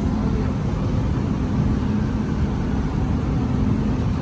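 Dubai Metro train running between stations, heard inside the carriage: a steady low rumble with a humming tone that swells and fades every second or so.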